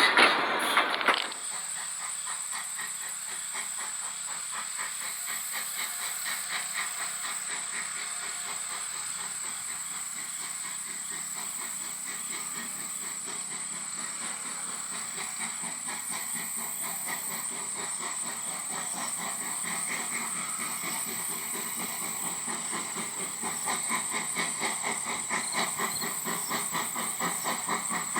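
H.K. Porter 0-6-0T steam tank locomotive working, its exhaust chuffing in a fast, even rhythm with steam hissing. The beats grow louder near the end. A loud rush of noise cuts off just over a second in.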